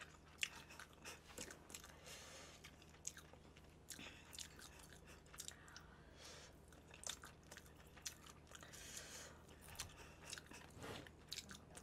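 Faint close-miked chewing of sticky sauced chicken, with small mouth clicks and smacks scattered irregularly throughout.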